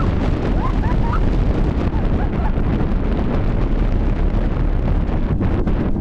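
Roller coaster ride heard from the front row: heavy wind rushing over the microphone and the train rumbling along the track. A few short high rising squeals cut through in the first second or so.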